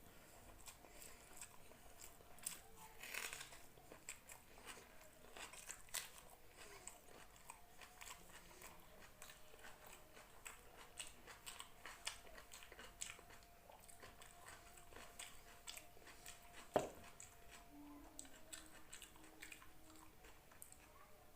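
Faint close-up eating sounds: a person chewing rice and chicken curry, with many small wet mouth clicks and smacks and one sharper click about three-quarters of the way through.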